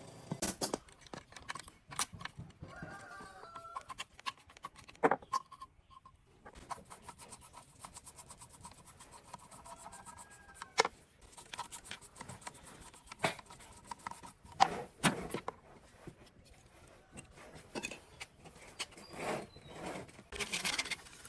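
Hand work on metal engine parts: scattered sharp clicks and knocks of parts and tools being handled, between stretches of rubbing.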